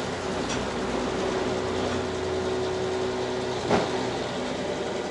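Petrol pump at a filling station running with a steady hum while fuel flows into a motorcycle tank. A short click comes nearly four seconds in.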